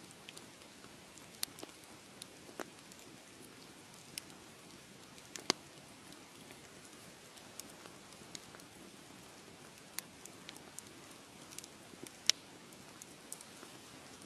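Wood fire crackling in a fireplace: irregular sharp pops and snaps over a soft steady hiss, with two louder pops, one about five and a half seconds in and one near the end.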